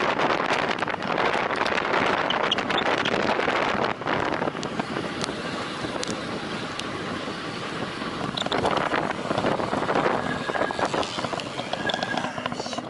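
Wind rushing over the microphone of a road cyclist riding at time-trial speed, with tyre and road noise; it drops about four seconds in and builds again a few seconds later.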